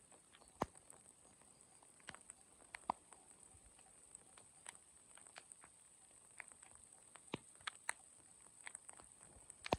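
Faint, sparse drops ticking irregularly, a few seconds apart at most: scattered raindrops falling before the rain sets in.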